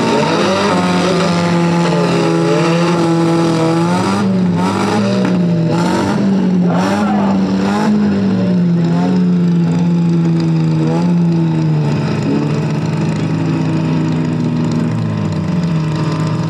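Several demolition derby cars' engines running at once, their pitch rising and falling unevenly as they rev.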